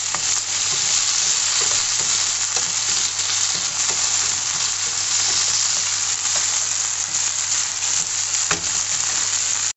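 Cubed potatoes, artichoke pieces and cherry tomatoes sizzling steadily in hot olive oil in a frying pan. A wooden slotted spatula stirs them, with a few light knocks against the pan.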